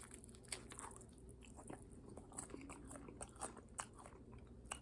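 Someone chewing a crispy, sauce-glazed Korean fried chicken wing close to the microphone: faint, irregular crunches of the fried batter and skin.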